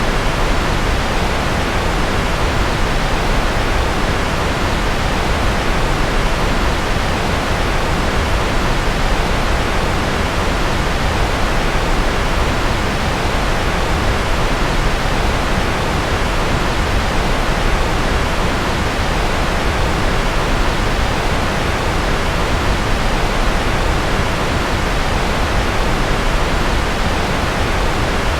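Steady, unchanging rushing noise with no tones or events, a white-noise sleep track made to stand for jet or rocket engine noise.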